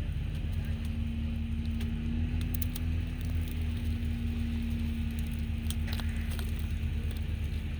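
Truck engines running with a steady low hum during a winch recovery, as three winches drag a stuck truck through wet clay mud.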